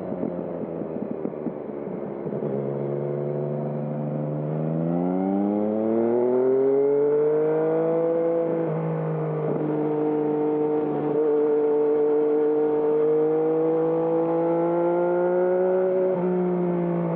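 Yamaha MT-09's inline three-cylinder engine through a Termignoni exhaust, accelerating under load. Its pitch climbs steadily, dipping briefly about halfway through and again near the end as it shifts up.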